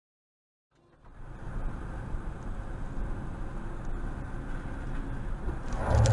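Silence for about a second, then the steady rumble and road noise of a moving car picked up by a dashcam, slowly growing louder toward the end.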